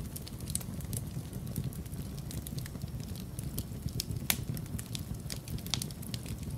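Wood fire crackling in a fireplace: irregular sharp pops and snaps, the loudest about four seconds in, over a steady low rumble.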